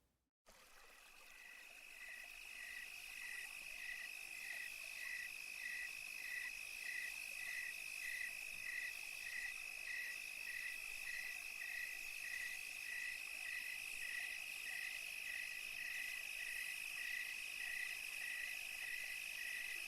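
Night chorus of calling animals: a steady high-pitched trill with a second call pulsing just under twice a second over a faint hiss, fading in after a brief silence.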